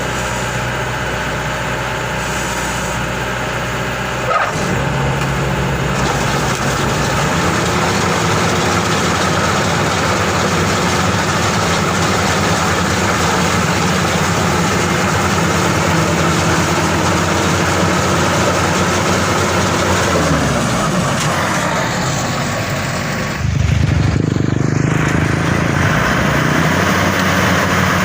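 Maxxi Bimo 102 SS combine harvester's diesel engine running steadily. Its note steps up about four seconds in, sags around twenty seconds in, then jumps louder and higher a few seconds before the end.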